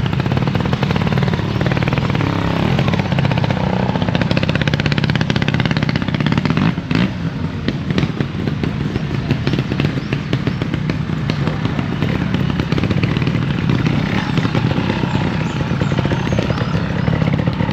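Trials motorcycle engine running close by at low speed as the bike is ridden through a section, with steady, rapid firing pulses and a short dip about seven seconds in.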